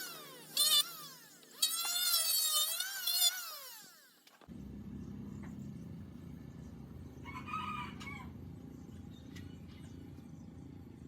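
A rooster crowing in long, pitch-bending calls, then a steady low outdoor background with one short fowl call a few seconds later.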